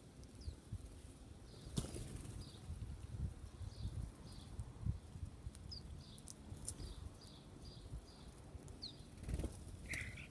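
Wild birds at a feeding spot: a dozen or so short, high chirps, wings flapping in low flutters, and a few sharp clicks, with a brief lower call near the end.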